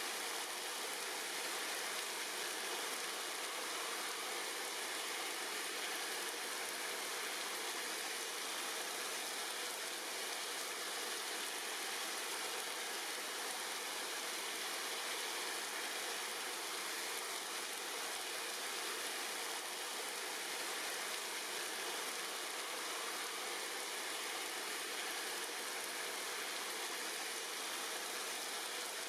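Steady rain, a dense even hiss of falling drops with no single drop or gust standing out.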